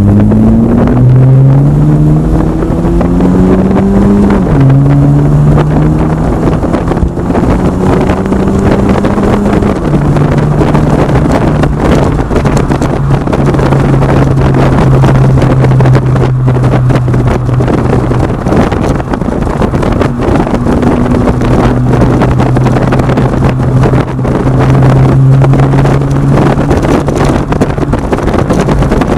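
2010 Acura TSX exhaust through aftermarket Megan Racing mufflers, pulling through the gears. The engine note climbs, drops at an upshift about four seconds in, and climbs again. After another shift near ten seconds it settles into a steady cruising drone.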